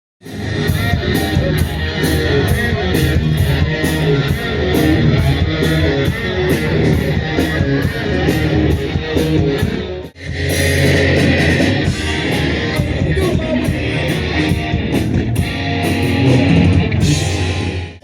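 Rock band playing a song: electric guitar over drums with a steady cymbal beat. It starts abruptly and breaks off for a moment about ten seconds in.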